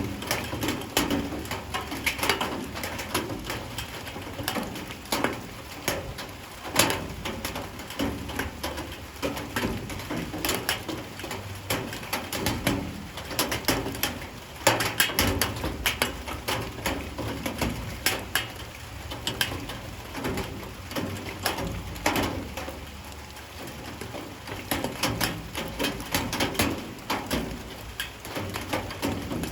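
Rain falling, with drops tapping irregularly and densely on hard surfaces over a steady patter.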